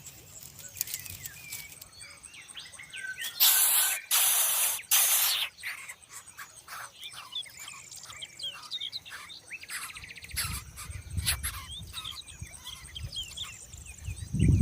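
Many short, high chirps from small birds throughout. About three seconds in comes a loud hissing noise lasting about two seconds, and a low rumble sets in near the end.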